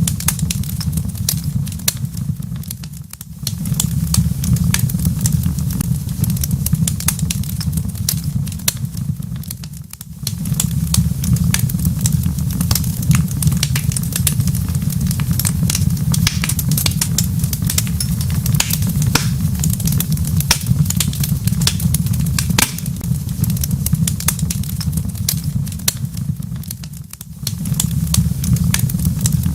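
Wood fire crackling in a fireplace: many small irregular pops and snaps over a steady low rumble. The sound dips briefly three times.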